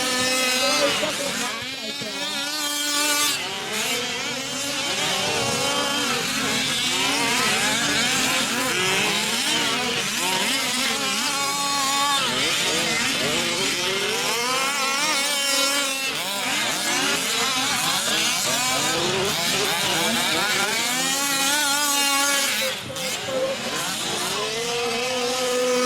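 Several 1/5-scale off-road RC trucks' small two-stroke engines revving and buzzing together, their pitches constantly rising and falling as they race.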